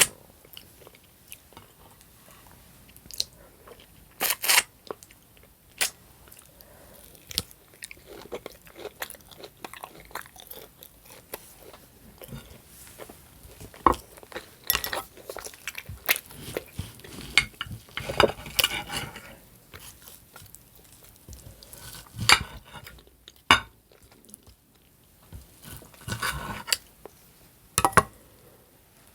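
Close-up mouth sounds of a person chewing and biting steak: irregular wet clicks and smacks, some sharper and louder than others, with short pauses between bites.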